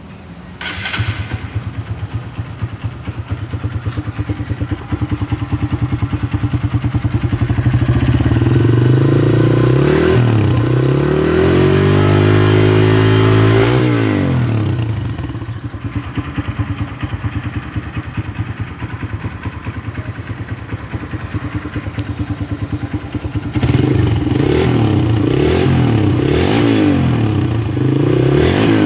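Honda Verza 150's single-cylinder engine breathing through an aftermarket Honda Tiger Revo muffler: it starts up about a second in and idles with a steady pulse, is revved up and back down once around the middle, then is blipped several times in quick succession near the end.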